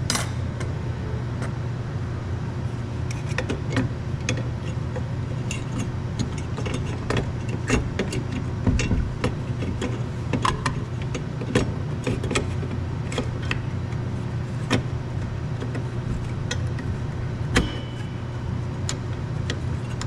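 A steady low mechanical hum throughout, with scattered sharp metallic clicks and knocks of tools and small metal parts being handled, loudest around the middle and about three quarters of the way through.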